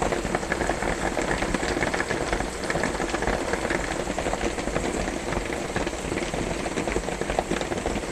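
Rain on a metal cabin roof: a dense, steady patter of many small drops, over the steady hum of a room fan.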